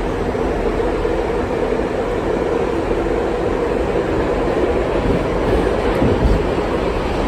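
R68 subway car running along the track, heard from inside: a steady rumble of wheels on rail with a faint hum, swelling slightly about six seconds in.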